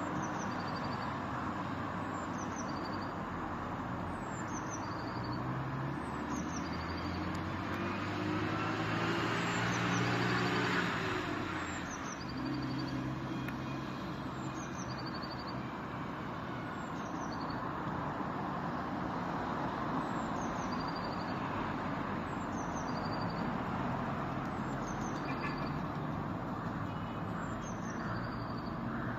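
Steady city traffic noise, with one vehicle's engine passing by about a third of the way in. A bird repeats a short, high song, a falling note then a quick trill, about every two seconds.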